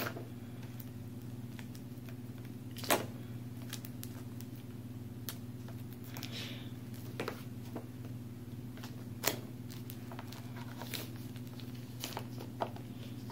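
Scattered clicks and a brief rustle from packaging being handled, over a steady low electrical hum.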